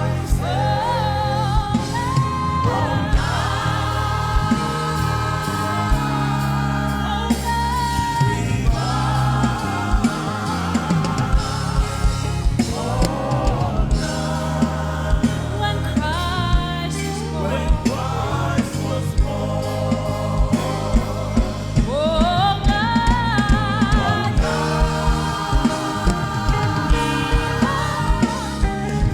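Gospel worship singing: voices singing a melody over a band with bass and a steady drum beat.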